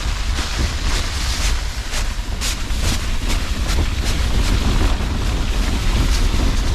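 Storm wind buffeting a Fjallraven Abisko Lite 2 tent with a steady low rumble, over a run of quick brushing slaps on the tent fabric, about two to three a second, as snow is knocked off it from inside.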